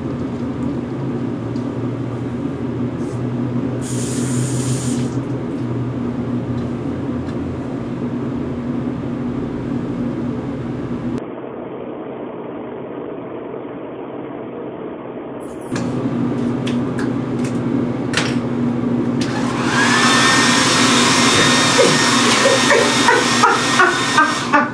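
Handheld hair dryer running with a steady hum and rush of air. About three-quarters of the way through it gets louder and a voice cries out over it.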